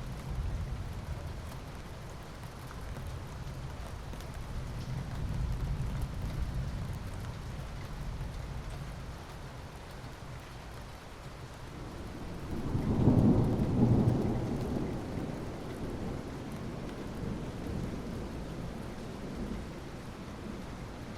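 Steady rain falling, with a low background rumble. A bit past the middle, a roll of thunder swells up and fades away over a couple of seconds.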